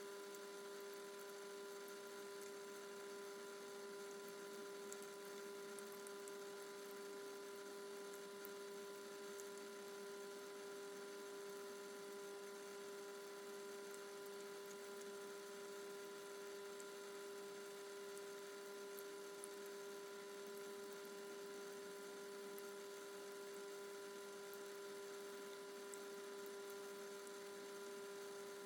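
Faint, steady hum holding one pitch with weaker overtones, over a light hiss.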